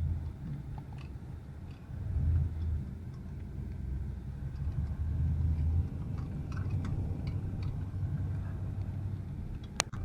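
Low, steady rumble of a vehicle driving over rough, snowy roads, heard from inside the cabin, with a few faint knocks.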